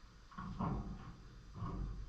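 Pet lovebirds making short sounds, about three brief bursts in two seconds.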